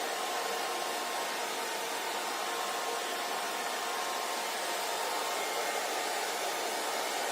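Hair dryer blowing at a steady speed: an even rush of air with a faint motor hum and no change.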